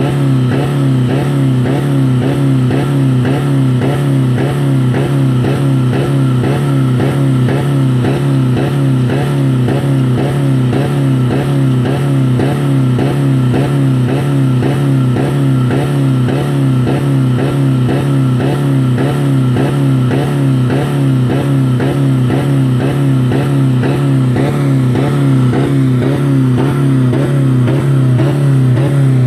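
2000 Dodge Neon four-cylinder engine running flat out at about 4000 rpm, a loud steady drone with a regular pulsing about three times a second. The engine is running with no oil or coolant, being run until it fails.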